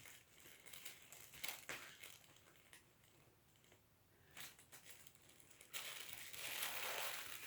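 A kitten with cerebellar hypoplasia scrambling about inside a play tunnel, giving faint scattered rustles and scrapes. A longer stretch of rustling comes near the end.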